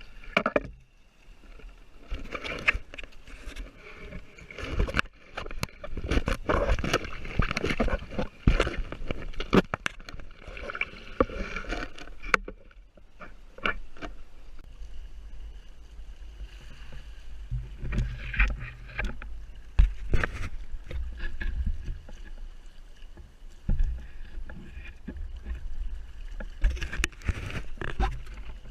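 Water splashing and slapping against the hull of a Hobie Tandem Island kayak under way, with many irregular knocks and splashes. A low wind rumble on the microphone grows heavier in the second half.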